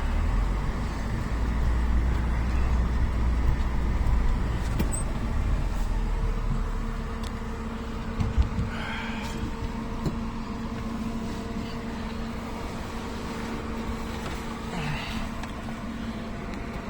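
A motor vehicle running, with a heavy low rumble that eases off about seven seconds in and a steady hum carrying on after.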